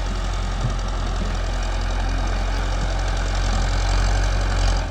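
Tractor engine running steadily with a deep hum, growing a little louder about four seconds in, then cutting off abruptly at the end.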